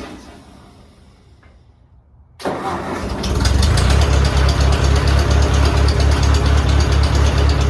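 Old tractor engine starting: it catches about two and a half seconds in, picks up over a second, then runs steadily with an even low beat.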